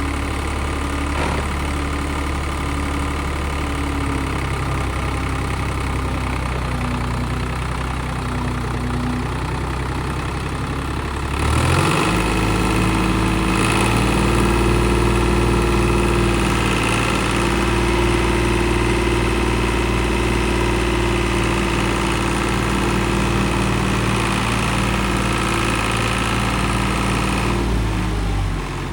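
1987 Case IH 485 tractor's diesel engine idling, then revved up about a third of the way in and held at a steady higher speed before dropping back to idle near the end.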